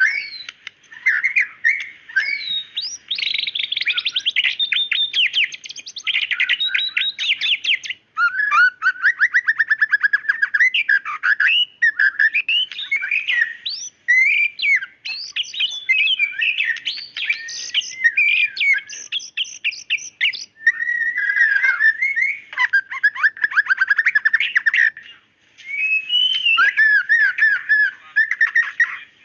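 White-rumped shama (murai batu) singing a long, varied song of fast rattling trills, sharp notes and whistled glides, almost without pause, with short breaks about 8 s and 25 s in.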